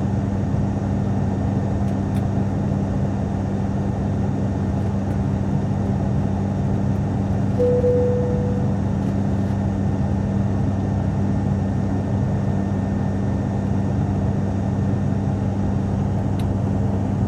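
Steady cabin drone of an ATR twin-turboprop airliner in flight, with a constant low propeller hum. About eight seconds in, a single cabin chime rings once and fades.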